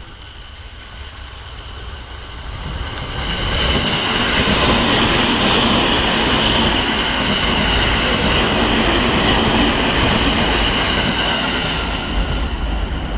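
A JR 209 series 500 electric multiple unit passing through a station at speed without stopping. The wheel-and-rail noise grows over the first few seconds, stays loud and steady while the cars go by, and starts to fade near the end.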